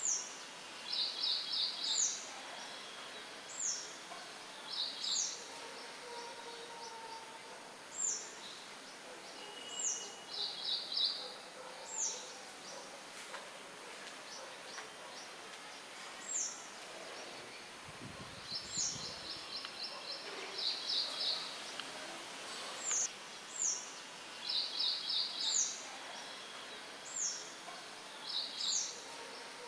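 Songbirds chirping: a high note sliding downward, repeated every second or two, mixed with short, fast trills, over a steady hiss of light wind. About two thirds of the way through there is a brief low rumble.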